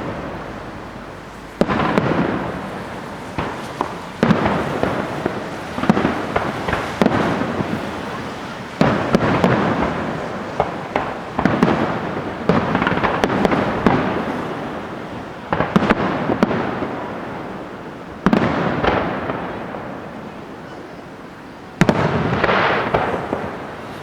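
Display fireworks: aerial shells and salutes bursting one after another, a sharp bang every one to three seconds, each trailing off in a long echoing rumble, with smaller quick reports in between.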